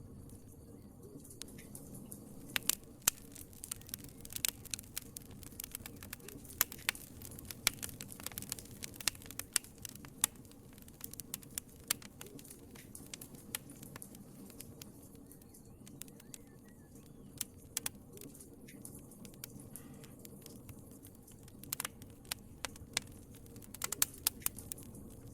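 Wood fire crackling in a fireplace: a low steady rumble of flames with scattered sharp pops and snaps, busiest in the first half and again near the end.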